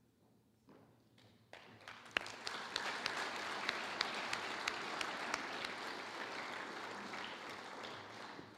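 Audience applauding: a few scattered claps at first, swelling into steady applause about a second and a half in, easing off near the end.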